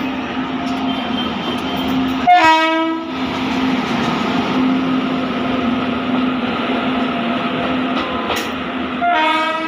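Electric locomotive's horn sounding two short blasts, one about two and a half seconds in and one near the end, over the steady rush of a train passing at speed.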